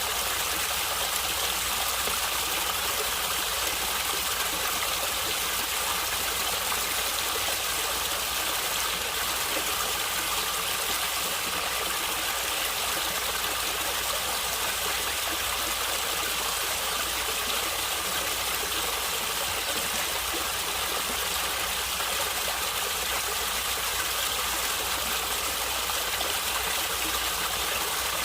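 Running water of a stream, gurgling and splashing steadily, a constant hiss with a low rumble underneath.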